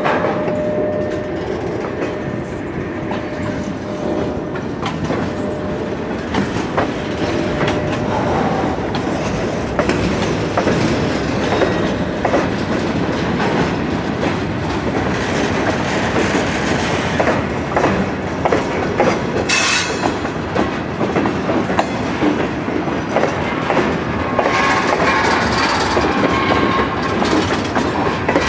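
A train rolling past close by, its wheels clattering over rail joints and switches in a fast run of clicks, with a brief high squeal or hiss partway through.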